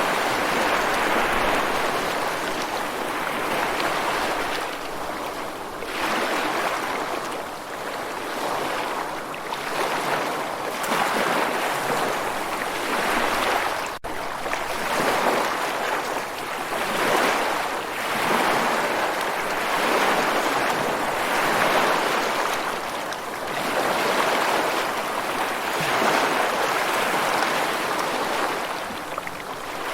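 Ocean surf washing in and receding as a continuous rushing hiss that swells and fades every two to three seconds.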